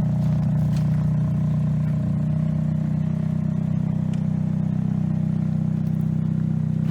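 Ferrari F430's V8 engine running steadily at an even speed, its exhaust note deep and unchanging, with the exhaust bypass valves opened by an aftermarket remote module.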